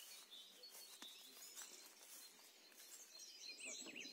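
Faint birdsong outdoors: small birds chirping in short high calls, with a few more chirps near the end.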